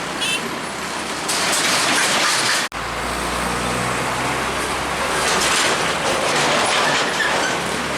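Roadside traffic noise of heavy trucks going by, broken by a sudden cut about a third of the way in. After the cut a truck engine's low, steady hum runs under the road noise.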